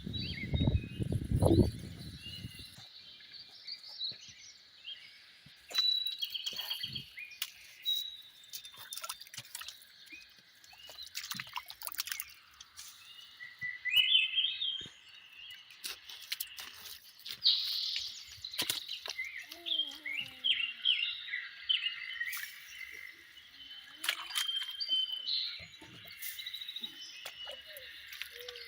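Many small birds chirping and trilling over one another, with scattered sharp clicks. A low, dense noise sounds in the first two seconds and then stops.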